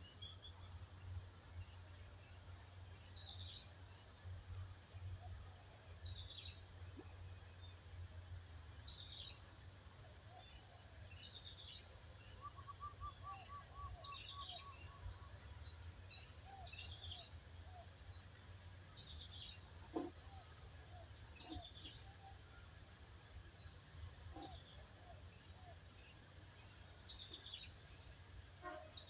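Faint birdsong: a short high phrase repeated every couple of seconds, with a brief rapid trill about halfway through and a few lower call notes, over a steady low rumble.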